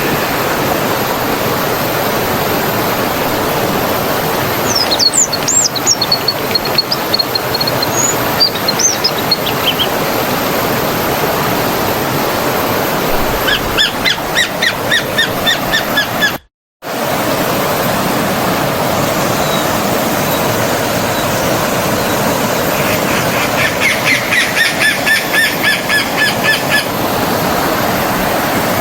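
Steady rush of a flowing forest stream, with small birds chirping over it: a few high whistled notes about five seconds in, a quick run of chirps around fourteen seconds, and a rapid repeated series of notes near the end. The sound cuts out for a split second just past halfway.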